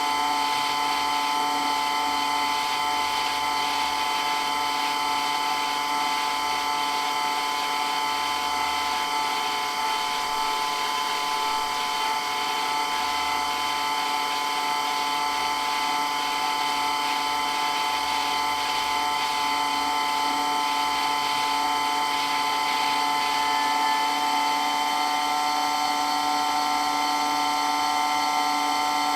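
Electric water pump running steadily, a continuous whine of several high tones over a hiss, with no change in speed.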